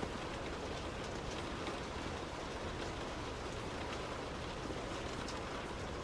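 Steady heavy rain while a car is driving, a constant hiss of rain and wet-road noise with scattered faint drop ticks.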